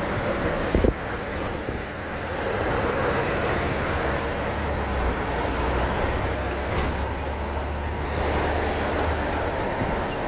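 Heavy truck driving in traffic, heard from inside the cab: a steady low engine drone over road noise, with a short thump about a second in.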